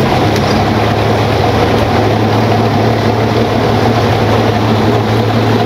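Motorboat engine running at a steady pitch, under a constant rushing noise.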